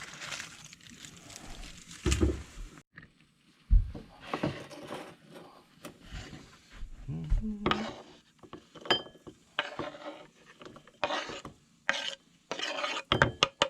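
Cooking handling noises: short scrapes and stirring of a utensil against a pan, with a few knocks of cookware, one sharper than the rest about four seconds in.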